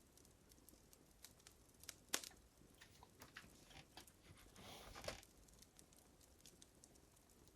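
Wood fire crackling faintly: scattered small pops and snaps, with a sharper snap about two seconds in and a short soft hiss near the middle.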